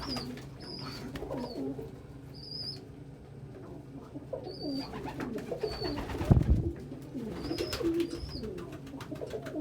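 Several domestic pigeons cooing over one another, with short high chirps now and then. A brief low thud about six seconds in.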